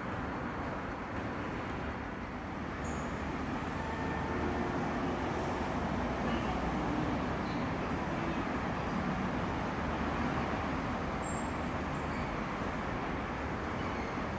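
Station platform ambience: a steady low rumble with no distinct events, growing slightly louder a few seconds in.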